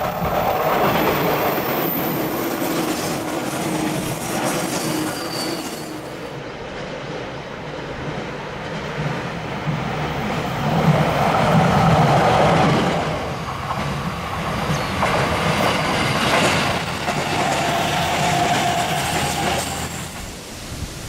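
A train passing close by on the Tokaido Line: a steady run of wheel-on-rail noise that lasts the whole pass and swells to its loudest about halfway through.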